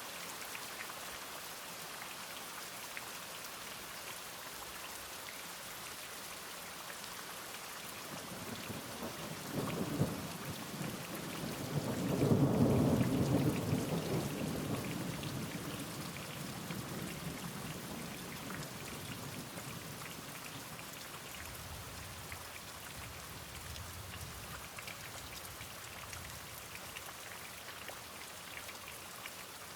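Steady rain falling, with a long rolling rumble of thunder that builds about a third of the way in, is loudest around the middle and dies away over several seconds; a fainter rumble follows a little later.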